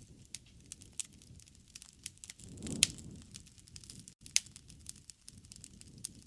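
Campfire burning: wood crackling with irregular sharp pops over the low rush of the flames. The rush swells briefly near the middle, and the loudest pop comes just under three seconds in.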